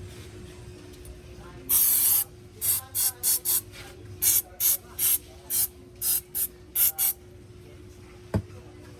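Aerosol spray can hissing in one half-second burst and then about ten short squirts, sprayed onto a starter motor's parts during cleaning. A single sharp click near the end.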